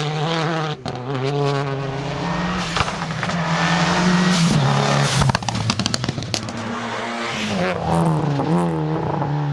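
Rally car engine at high revs, its pitch rising and falling as it is driven hard. A quick run of sharp pops and cracks comes about five to six and a half seconds in.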